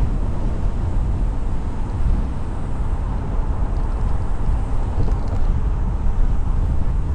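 Steady rumble of a car driving along a road: tyre and wind noise with no change in pace.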